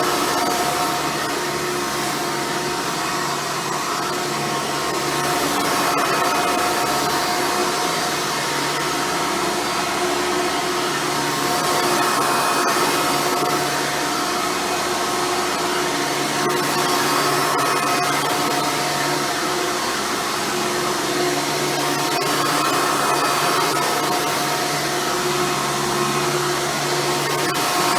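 Hoover Futura Elite upright vacuum cleaner running steadily, its motor hum swelling and easing every few seconds.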